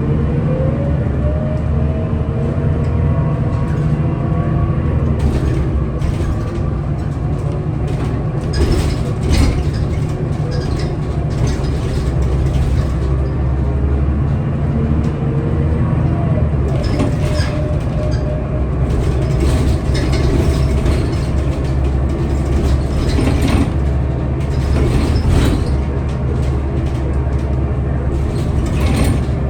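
Scania L94UB city bus under way: a steady low engine and drivetrain drone, with a whine that rises in pitch as the bus accelerates near the start and again about halfway through. Scattered rattles and knocks from the body and fittings.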